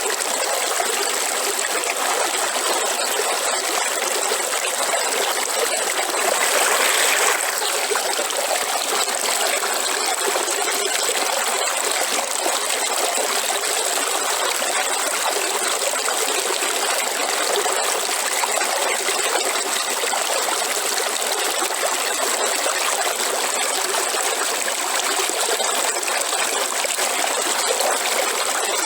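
River water flowing and trickling, a steady rushing, briefly a little louder about a quarter of the way through.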